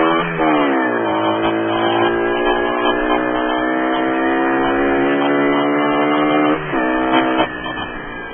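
The 50 cc single-cylinder engine of a Mash Fifty motorcycle running under way. Its pitch drops about a quarter second in, as on a gear change, then holds steady. Near the end the engine note falls away, leaving a quieter rushing noise.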